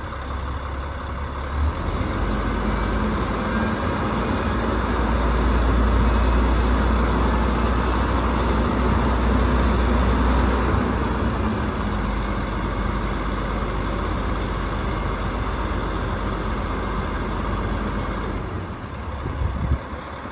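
Rooftop HVAC unit running steadily, a loud hum with a deep low rumble. It grows louder about two seconds in and eases off near the end.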